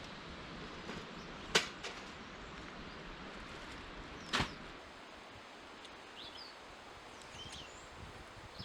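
Outdoor woodland ambience: a steady hiss broken by two sharp snaps, one a little over a second in and another about three seconds later. Faint bird chirps come in the second half.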